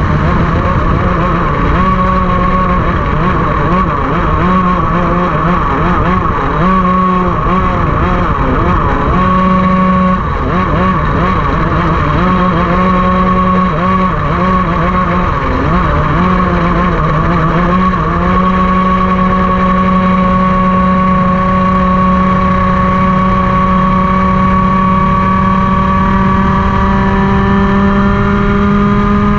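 Racing kart engine at full race load, its pitch dipping and rising repeatedly through a run of corners. About two-thirds of the way in it settles into one long, steady climb in pitch as the kart accelerates down a straight.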